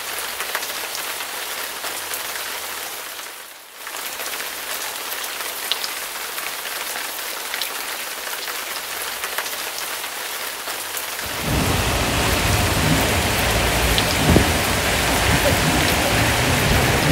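Heavy rain falling and pattering on a car, with scattered drop ticks. There is a brief dip about four seconds in. About eleven seconds in it turns louder and a deep rumble comes in.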